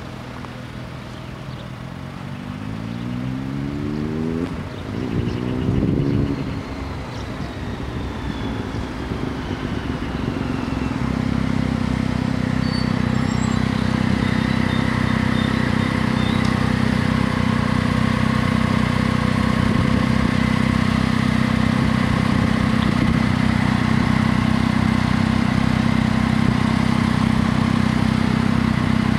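A road vehicle's engine revs up twice through the gears in the first few seconds. From about ten seconds in, a steady, louder drone with a low hum and a few higher held tones takes over as a TER passenger train approaches the closed level crossing.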